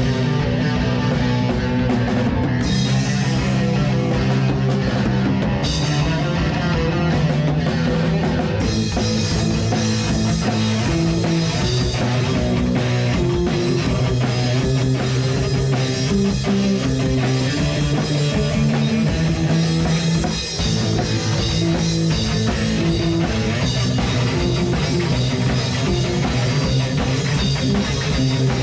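Rock band playing live: drum kit and guitars with a steady beat. The sound grows fuller, with cymbals filling the top, about eight seconds in.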